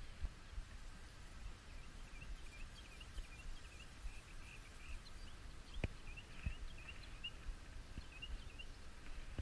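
Small birds chirping in quick, repeated high notes, over a low steady rumble, with a single sharp click about six seconds in.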